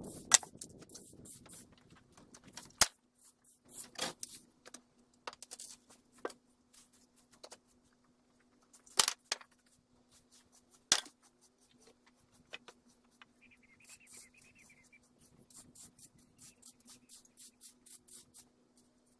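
Irregular sharp clicks and knocks, a few much louder than the rest, then a run of quick light taps near the end, over a steady low hum.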